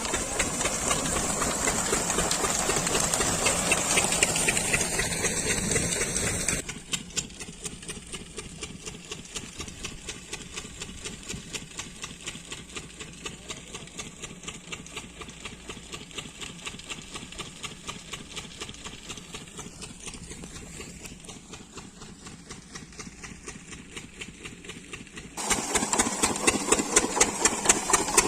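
12 hp big-flywheel diesel engine running steadily to drive a water pump, each firing stroke a distinct regular thud. It drops noticeably quieter about six and a half seconds in and comes back loud near the end.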